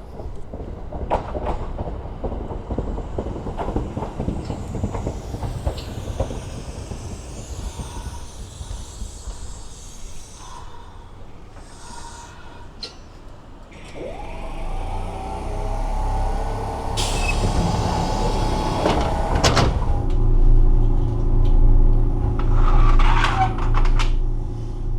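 Kintetsu Suzuka Line electric train starting off. About halfway through, its traction motors whine up in pitch as it pulls away, then it runs with a steady low hum and drone that grows loudest near the end. Before that there is a stretch of irregular clattering noise.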